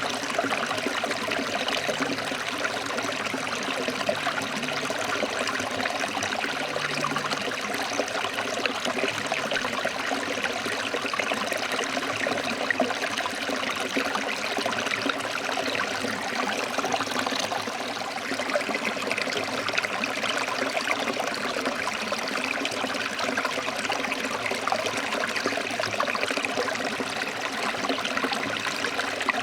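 Forest stream flowing and trickling over rocks, a steady, even rushing of water.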